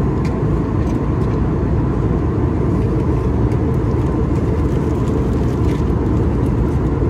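Airliner cabin noise in cruise flight: a steady low rumble that does not change.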